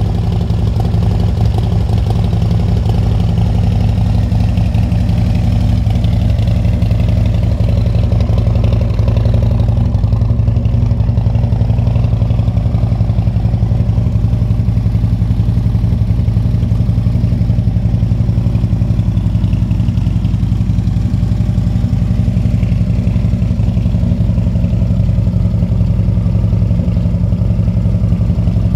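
Harley-Davidson Road King Police motorcycle with a Screamin' Eagle 120 cubic-inch V-twin crate motor, idling steadily.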